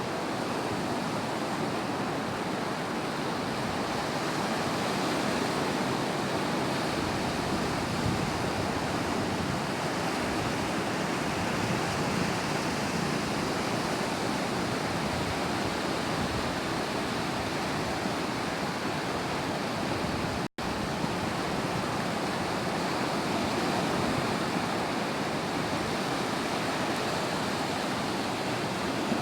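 Sea surf washing onto a beach: a steady rush of waves that swells slightly and falls back, broken once by a split-second dropout about two-thirds of the way through.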